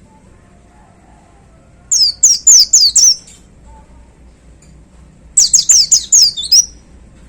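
Pleci (white-eye) singing two quick volleys of sharp, high, falling notes, five or six notes each, about two seconds in and again about five and a half seconds in. These are the rapid 'tembakan' (shooting) phrases prized by songbird keepers.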